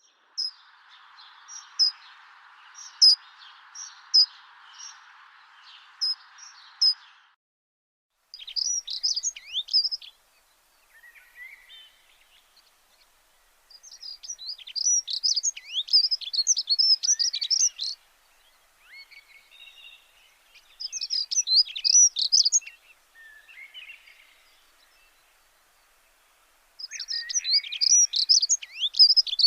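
Birds chirping and twittering in several bursts of quick, high calls with short silent gaps between them. A steady hiss runs under the first seven seconds, then cuts off.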